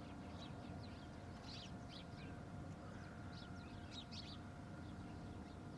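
Small birds chirping, many short high chirps in quick, irregular succession, over a faint steady hum.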